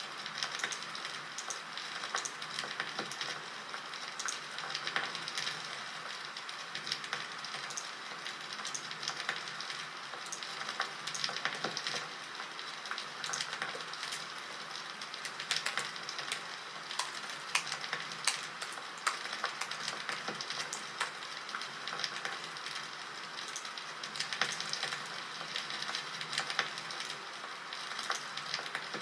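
Campfire crackling: a steady hiss with irregular sharp pops and snaps of burning wood.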